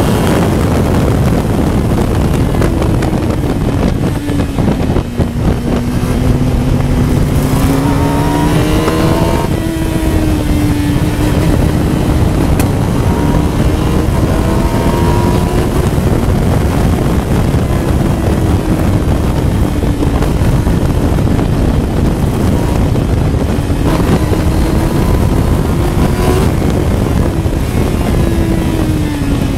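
Honda CBR1000RR inline-four motorcycle engine driving a Westfield Megablade at racing speed, heard onboard under heavy wind rush. It runs high in the revs, then falls as the car brakes and shifts down through the gears, and climbs again on the throttle, several times over.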